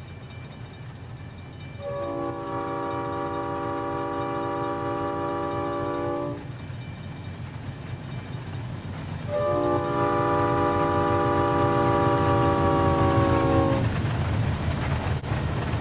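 Locomotive chord horn sounding two long blasts, several notes together, over the steady low rumble of the engine; the second blast sags slightly in pitch as it goes.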